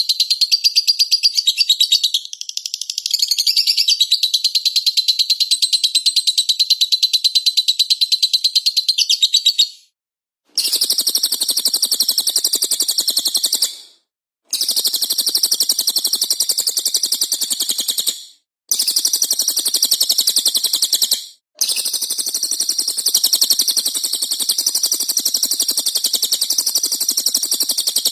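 Small songbirds singing in fast, dense chattering trills. A continuous high trill runs for about ten seconds, then stops, and a fuller chatter follows in stretches broken by three short silent cuts.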